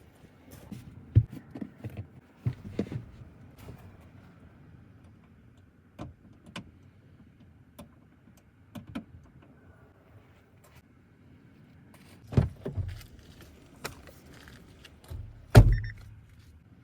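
Things being handled around a car: scattered clicks, clunks and small rattles, with a heavier thump about twelve seconds in and the loudest one near the end.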